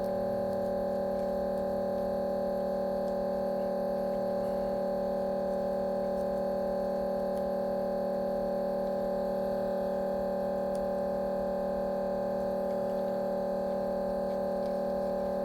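A steady electrical hum made of several held tones, unchanging in pitch and level.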